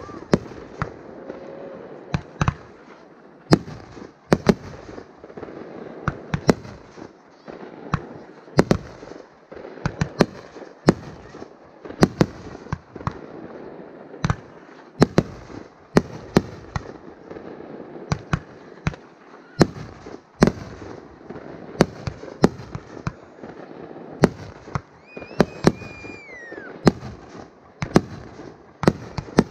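Aerial fireworks shells bursting one after another, sharp bangs about one to two a second at uneven spacing over a steady background hiss. A brief falling whistle comes near the end.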